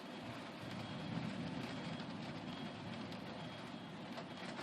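Steady rushing noise of a heavy rain and hail storm with muddy floodwater flowing, with a low rumble swelling about a second in.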